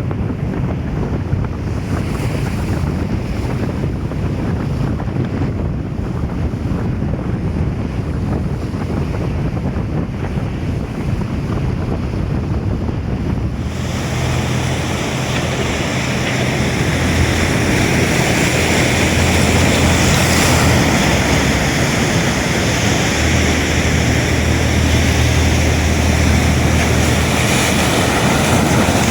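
Ocean surf breaking, with wind buffeting the microphone. About halfway through the sound changes abruptly, turning brighter and a little louder, with a steady low rumble underneath.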